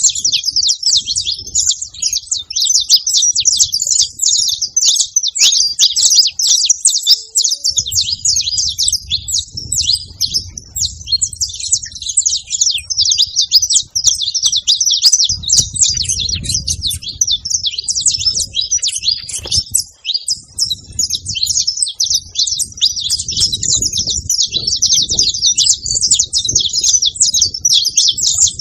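Saffron finch chirping and singing without pause, a dense run of rapid, high, sharp chirps.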